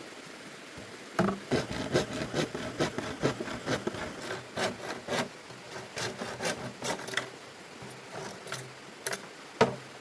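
A hand tool scraping wood in quick, repeated strokes, about three a second, for around six seconds, then a few scattered strokes near the end.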